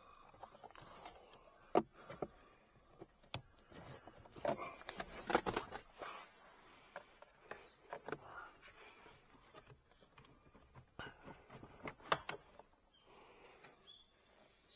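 Intermittent clicks, knocks and scraping of hands handling plastic car parts, with a sharp click about two seconds in and another late on.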